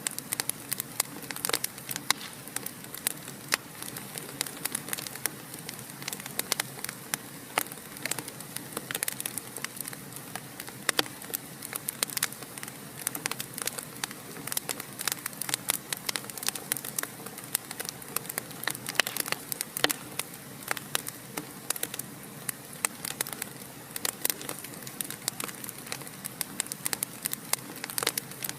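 Wood fire crackling in a fireplace: frequent irregular sharp pops and snaps over a steady soft hiss of burning.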